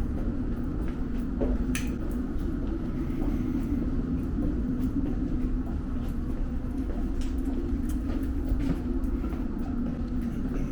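Inside a London Underground Metropolitan line train carriage as it runs: a steady low rumble with scattered light clicks and rattles, the sharpest about two seconds in.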